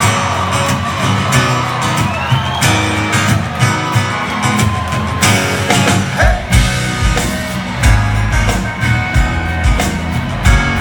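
Live country band playing the instrumental intro of a song: guitars over bass and drums, with a heavy low beat coming in about halfway through.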